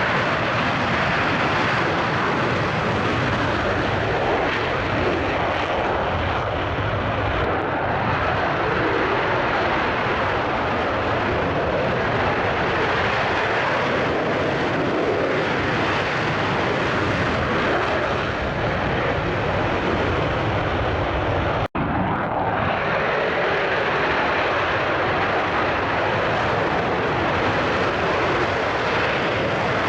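Steady, loud engine noise of a military fighter jet, with a momentary dropout about two-thirds of the way through.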